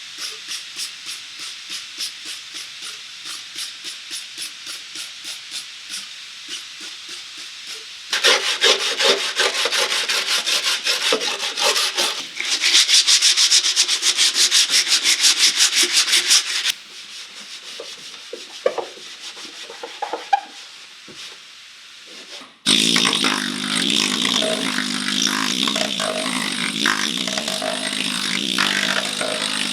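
Rust being abraded off steel car body panels. First comes a run of rhythmic hand sanding or scraping strokes, then louder, faster strokes about eight seconds in. About two-thirds of the way through, a power tool starts suddenly and keeps running.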